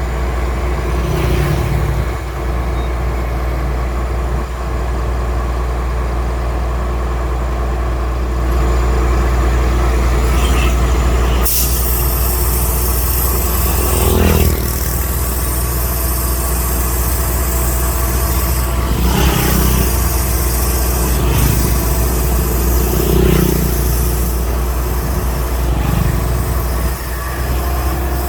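Concrete pump truck's diesel engine running steadily with a deep hum, with occasional thuds. A loud hiss starts suddenly about halfway through and keeps going.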